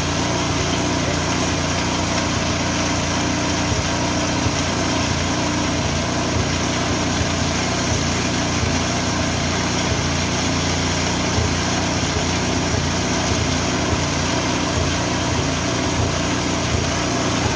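Richi KD 350 mini rice and corn mill running steadily, driven by its small petrol engine, with a dense mechanical hum and frequent small clicks.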